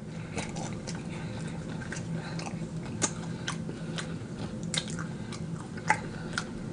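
Close-miked chewing and biting of fried chicken wings: scattered short wet clicks and crunches of mouth sounds, with a steady low hum underneath.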